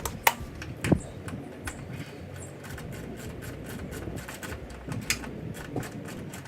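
Hand tools clicking and clanking against metal while the bolts and hangers of a car's exhaust are undone, with two sharper knocks in the first second and another about five seconds in.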